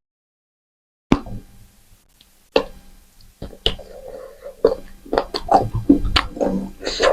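Close-miked eating sounds: after about a second of dead silence, a few sharp separate clicks, then chewing and lip-smacking that grows busier toward the end.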